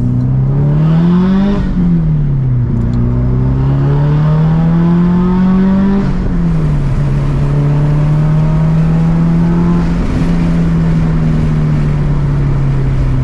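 Bug-eye Subaru WRX's turbocharged flat-four engine heard from inside the cabin, revving up under acceleration, falling in pitch at an upshift about a second and a half in, climbing more slowly in the next gear, then dropping again at a second shift about six seconds in and settling to a steady cruise.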